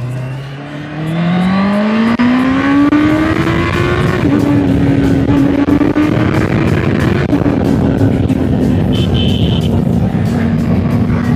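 Honda CBR650R inline-four engine and exhaust accelerating, its pitch climbing for about four seconds. The pitch dips at an upshift, then settles into a steady, even drone at constant speed.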